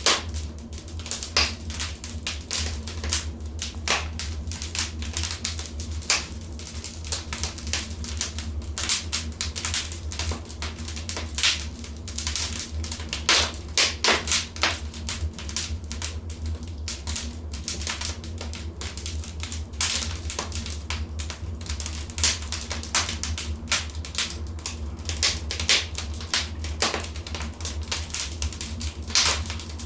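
Wood fire in a fireplace crackling, with many irregular sharp pops and snaps, some louder than others, over a steady low rumble.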